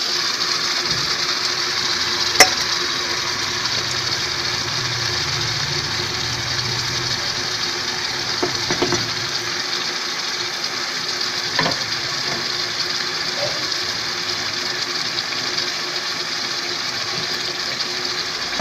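Marinated chicken pieces with potatoes and onions sizzling steadily in hot oil in a wok. A metal spatula clinks against the pan now and then, with one sharp clink about two seconds in.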